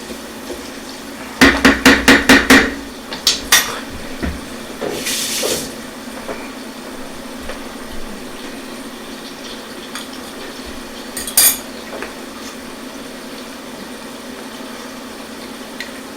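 A utensil knocked quickly against a cooking pan about seven times, then a few lighter clinks and one sharp clink later on. Under it runs the steady hum of an induction cooktop that is switched on.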